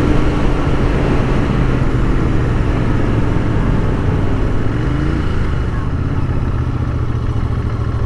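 Royal Enfield Continental GT 650's parallel-twin engine running under way through its quiet standard exhaust. The engine note rises briefly about five seconds in, and the sound eases off a little towards the end.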